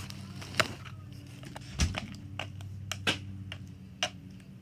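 Scattered knocks and clicks, about half a dozen, with one heavier thump a little under two seconds in, over a steady low hum.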